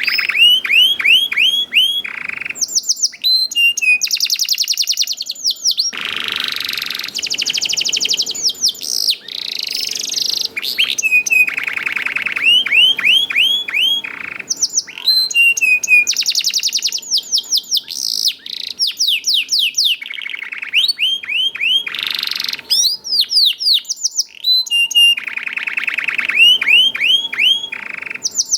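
Domestic canary singing vigorously: loud phrases of fast repeated chirps and rolling trills, one after another with brief pauses between them.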